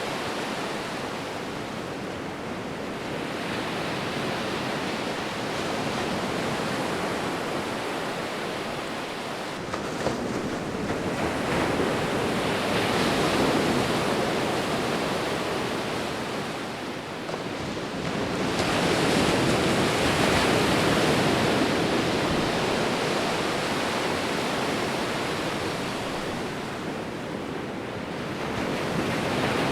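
Sea waves rolling in: a continuous wash of surf that swells to a louder surge around the middle and again a little later, easing off between them.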